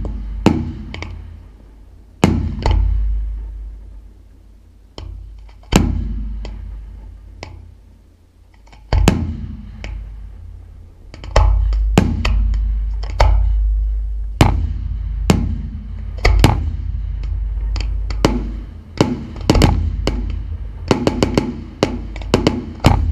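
Fireworks shells bursting overhead, each sharp bang followed by a long rumbling echo. The bursts come a few seconds apart at first, then more often, and crowd into a rapid run of bangs near the end.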